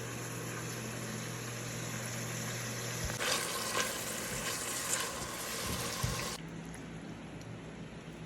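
Oil and minced garlic sizzling in a pot. The hiss turns louder and crackling, with a few clicks of stirring, about three seconds in, then drops suddenly to a soft hiss a few seconds later.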